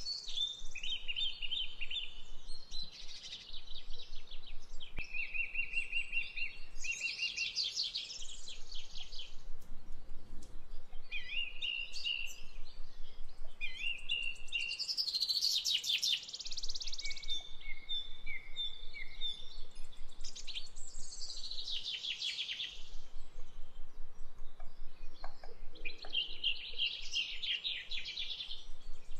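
A bird singing in repeated phrases of rapid high trills and chirps, with short pauses between phrases.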